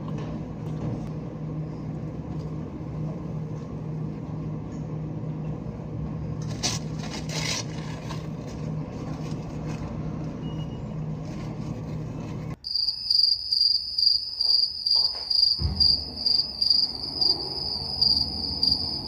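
Steady low hum of a car interior while driving, with a few clicks about seven seconds in. After a sudden cut about two-thirds of the way through, high, even cricket chirping starts, about two to three chirps a second.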